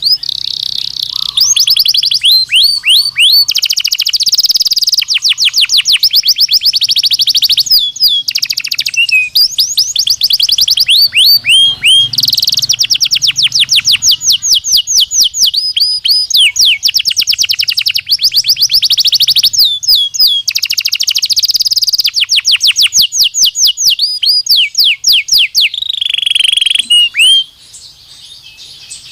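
Belgian canary (domestic canary) singing a long, loud song made of fast trills, each a rapid run of repeated notes, switching from one roll to the next. The song breaks off abruptly near the end.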